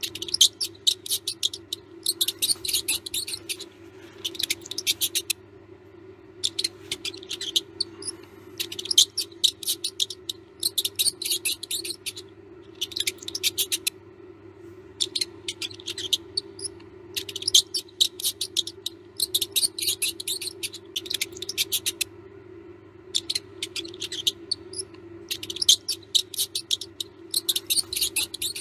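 Mouse sounds: bursts of rapid scratching and scurrying clicks, each lasting one to two seconds with short gaps between, and a few brief high squeaks. A steady low hum runs underneath.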